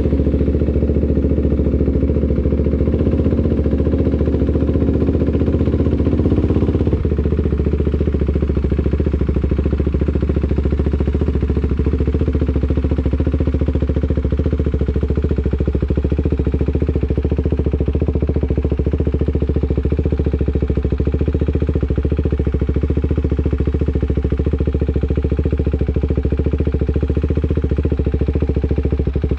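Single-cylinder engine of a KTM 390 Duke (373 cc) idling steadily just after start-up. About seven seconds in, the sound becomes slightly softer and settles into an even idle.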